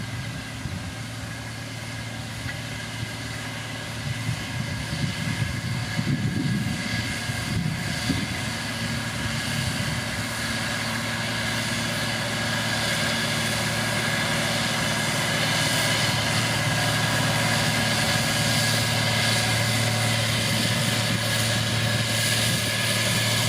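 Diesel engine of heavy road-building machinery running steadily, with some irregular low knocking a few seconds in, growing gradually louder as the machine works closer.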